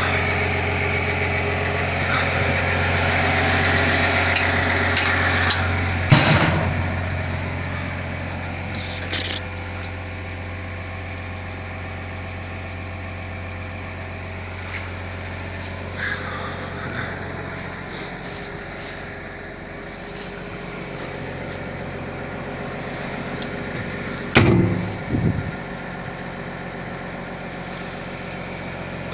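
Caterpillar 320 long-reach excavator's diesel engine running, working harder for the first several seconds, then settling to a lower, steady level. Sharp metallic knocks come about six seconds in and twice in quick succession near the end.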